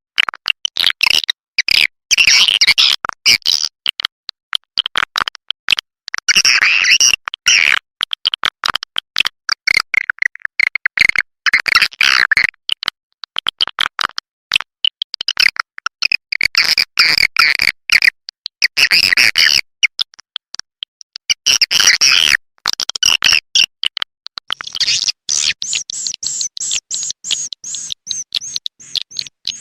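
Swiftlet calls played as a lure sound for a swiftlet nest house: dense, rapid, high-pitched twittering chatter in bursts of a second or two with short breaks between them.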